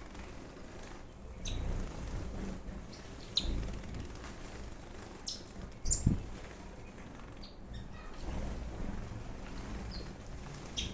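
Caged ornamental birds giving short, scattered chirps, with low thuds and rustling among them that may be wings flapping.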